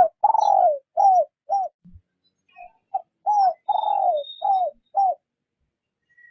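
Spotted dove (chim gáy) cooing in two phrases of short coos, each coo falling in pitch at its end. This is a decoy bird's gentle lure call.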